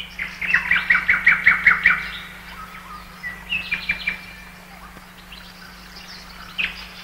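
Songbirds singing in woodland: a quick run of about eight repeated chirping notes in the first two seconds, then a few scattered shorter calls.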